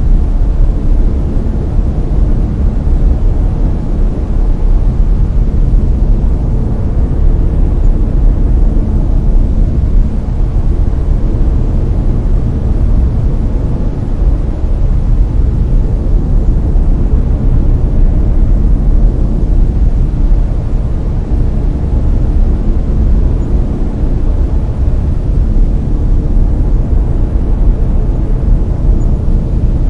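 Steady layered brown noise: a continuous deep, even rumbling hiss, strongest in the low end and falling away toward the highs.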